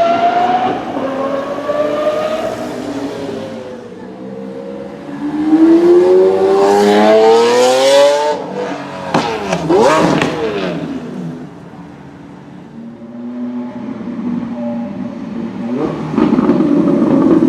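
Supercar engines revving and accelerating hard. The engine note climbs steeply in pitch for a few seconds around the middle, drops off sharply, and builds loud again near the end.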